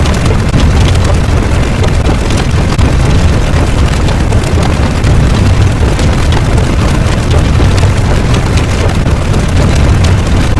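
Loud, steady rumbling noise, heaviest in the low end, with no pauses or distinct beats: a continuous rumble sound effect.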